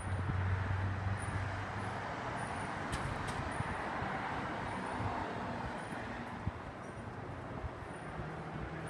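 Steady vehicle noise: a low engine hum that fades over the first couple of seconds, over a constant rushing hiss.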